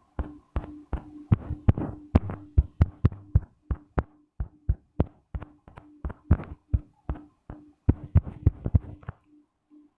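Rapid, irregular taps on a touchscreen, about four or five a second, with a faint steady hum underneath.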